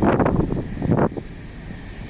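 Wind buffeting the microphone in a loud, ragged gust for about the first second, over the steady rumble of the boat underway.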